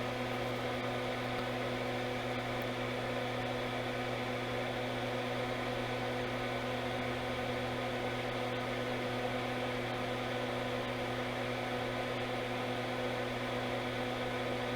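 Steady electrical hum with a fan-like whir, holding several even tones without change.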